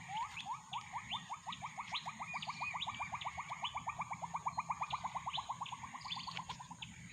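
Bornean gibbon (uwa-uwa) calling: a series of rising whoops that speed up into a fast trill and fade out near the end. Higher bird chirps and a steady insect whine sound alongside.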